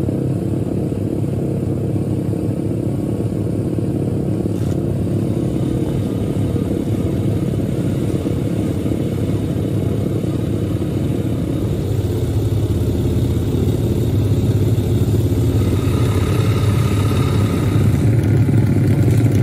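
Pit bike engines running steadily at low revs, getting louder in the second half.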